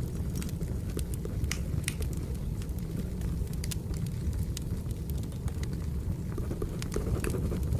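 Wood fire burning: a steady low roar with frequent sharp, irregular crackles and pops.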